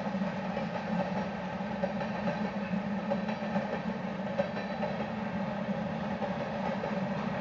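Freight train's boxcars and covered hopper cars rolling steadily past: a continuous rumble of steel wheels on rail with small knocks now and then.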